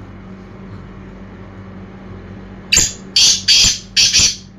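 A black francolin calls: a run of four loud, harsh, rasping notes in quick succession, starting about three seconds in. A steady low hum lies under it throughout.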